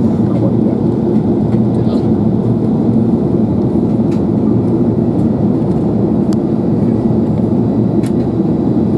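Steady cabin noise inside an Airbus A380 airliner in flight on its approach: an even, low rumble of engines and rushing air, with a few faint ticks.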